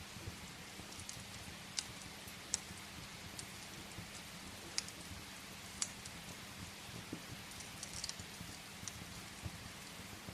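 Steady rain with scattered sharp pops of a wood fire crackling in a fireplace, a handful of them standing out and a quick cluster near the end.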